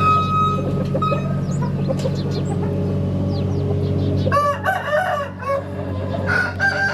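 Rooster crowing twice, first about four seconds in and again near the end, over a steady low hum.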